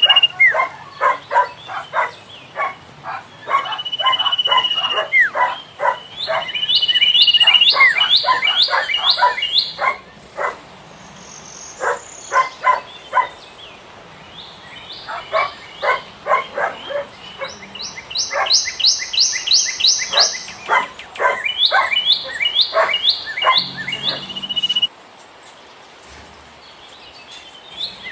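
Philippine pied fantail calling: rapid runs of short chip notes alternating with bursts of quick rising high-pitched notes, with a few longer whistles. The calling drops out suddenly near the end.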